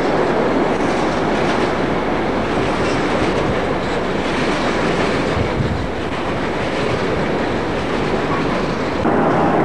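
Train hauled by a Class 47 diesel locomotive running through the station, a steady rumble with wheels clattering over the rail joints. A steady hum comes in near the end.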